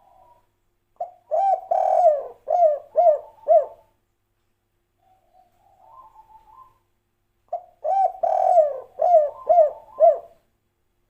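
Spotted dove (tekukur) singing the 'kuk 3' song twice, about six seconds apart. Each phrase starts with soft, quiet coos, then a loud drawn-out coo, and ends in three short, clipped coos.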